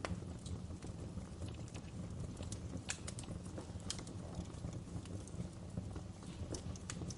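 Wood fire burning: a steady low rumble with irregular sharp crackles and pops of the burning logs.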